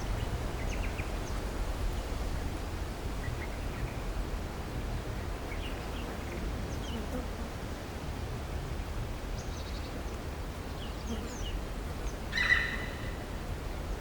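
Outdoor natural ambience: a steady low rumble with scattered faint bird chirps, and one short, high-pitched animal call near the end.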